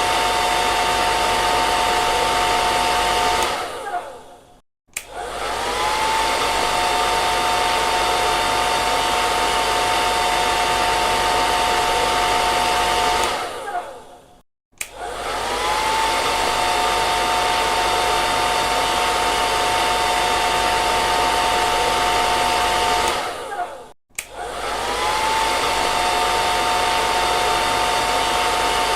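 Hair dryer blowing steadily, a rushing of air with a whine on top. Three times, roughly every ten seconds, it winds down to brief silence, its whine sliding down, then spins back up to full speed.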